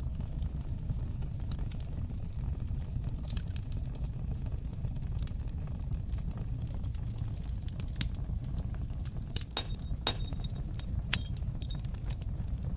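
Wood fire in a fireplace crackling, with irregular sharp snaps and pops over a steady low rumble of burning. Clusters of pops come about 8 to 10 seconds in, and one loud pop comes about eleven seconds in.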